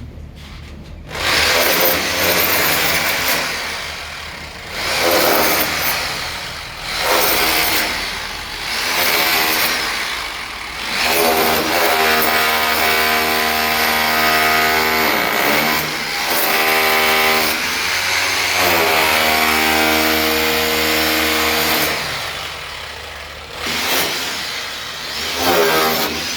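An engine running and revving in repeated surges, then holding a steady pitched drone for several seconds with brief dips in speed.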